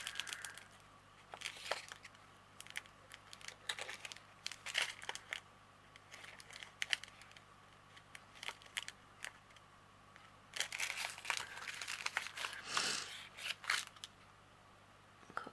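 Small plastic bags of diamond painting drills crinkling and rustling as they are handled, in scattered bursts with a busier stretch near the end.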